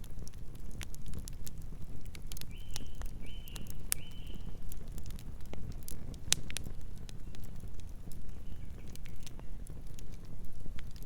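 Wood campfire crackling, with frequent sharp pops over a low steady rumble. Three short high chirps come a few seconds in.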